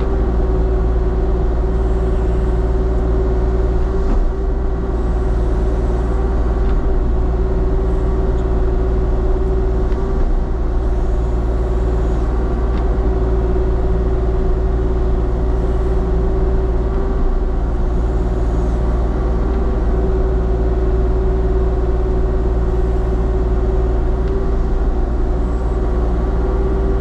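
Diesel engine of a compact earthmoving machine running steadily at constant speed, heard up close from the operator's position, with a steady whine over the drone and a few faint knocks.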